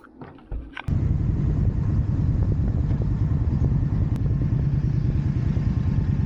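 Indian Scout motorcycle's V-twin engine running with a steady low rumble. It comes in abruptly about a second in, after a few faint clicks.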